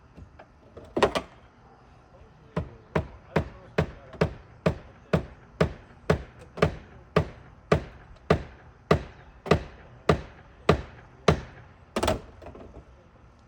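Hammer striking a shingle ripper driven under a cedar shake to get at its nails: a steady run of sharp blows, about two a second, with a heavier double blow near the start and near the end.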